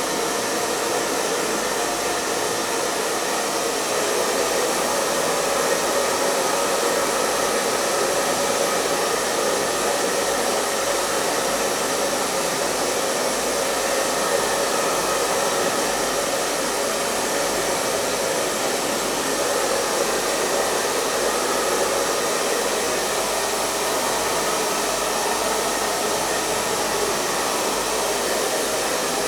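Hair dryer running continuously at a steady speed: an even blowing whoosh with a faint motor hum.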